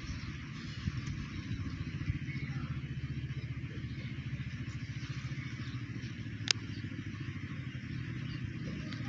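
An engine running steadily with a fast, even pulse, with a steady hiss above it and one sharp click about six and a half seconds in.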